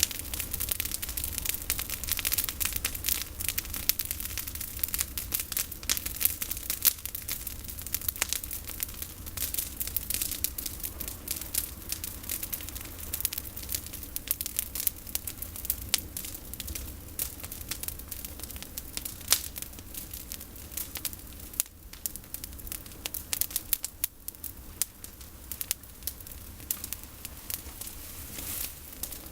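Campfire of pruned olive branches burning, crackling with a dense, irregular run of sharp pops and snaps.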